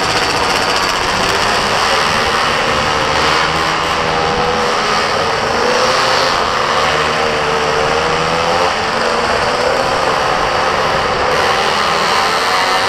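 Mini moto's small engine running at high revs, its pitch repeatedly rising and falling as the throttle is opened and eased, over a steady rushing noise.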